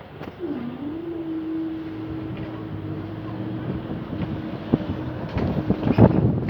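Class 375 Electrostar electric train running past, a steady rumble with a held hum that dips briefly as it begins and then stays level for several seconds. A few knocks sound near the end.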